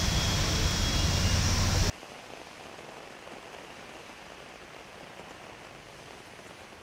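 Heavy monsoon rain with traffic driving through a waterlogged street: a loud, steady rush of water and rumble. It cuts off abruptly about two seconds in to a much quieter, even hiss of rain.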